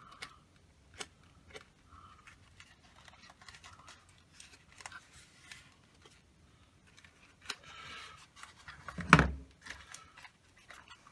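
Small handling noises at a workbench: scattered light clicks and short rustles, with one louder knock about nine seconds in.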